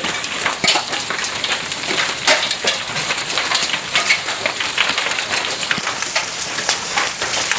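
Hailstones pelting down in a hail storm: a dense, steady clatter of many small, sharp impacts over a rushing downpour noise.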